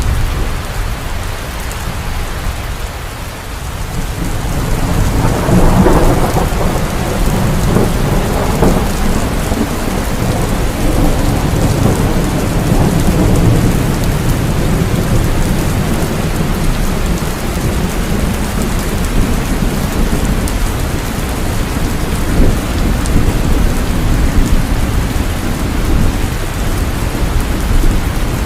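Heavy rain falling steadily, with thunder rumbling low underneath; the rumble swells about five seconds in and rolls on.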